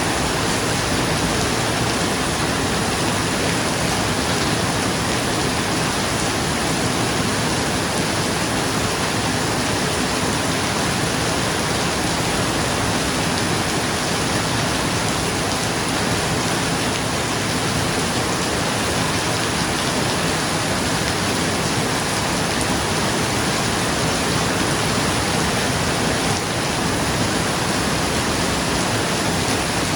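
Rain falling steadily on a roof: an even, unbroken hiss with no thunder heard.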